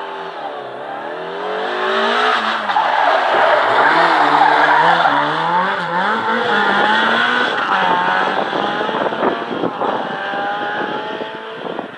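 Ford Escort rally car's engine running hard through the stage, its revs rising and falling with each gear and corner, loudest about a third of the way in, then turning ragged and crackly. The engine has dropped onto three cylinders: a misfire.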